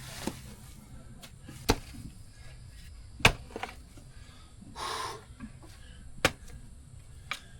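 Several sharp, irregularly spaced knocks or clicks, with a brief rustling noise about five seconds in.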